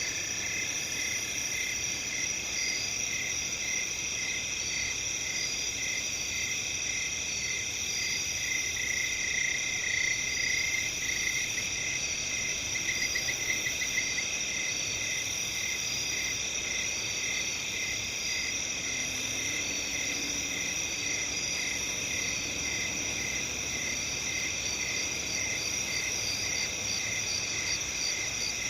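Night chorus of crickets chirping: a steady high shimmer of many insects, with one nearer cricket chirping about twice a second. A few seconds into the middle it grows louder and breaks into a quick trill, then goes back to its even chirping.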